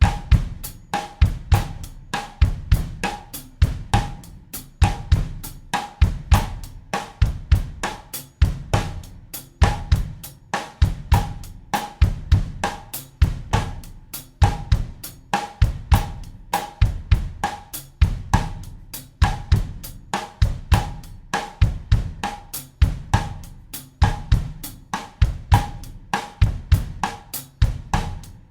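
Acoustic drum kit playing a steady bossa nova groove at 100 BPM in 4/4, a repeating pattern of quick cymbal strokes over low kick-drum thuds.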